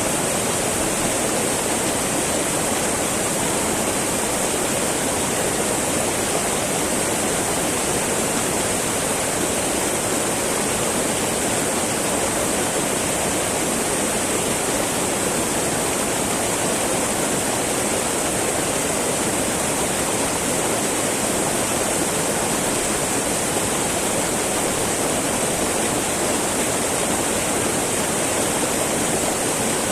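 Small mountain river babbling and rushing over rocks, a steady, even flow of water.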